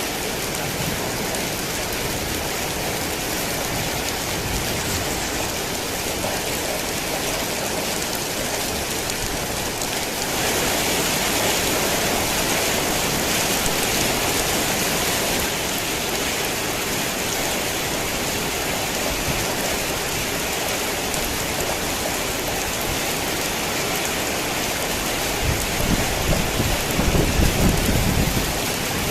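Steady heavy rain falling, growing heavier about ten seconds in and easing slightly a few seconds later. A low rumble of thunder rolls in near the end.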